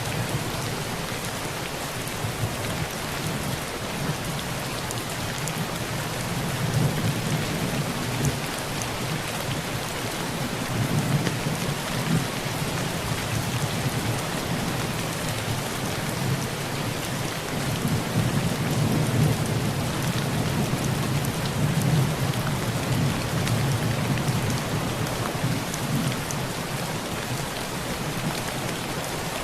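Heavy rain pouring steadily on a tin roof, with low thunder rumbling underneath that swells and fades several times.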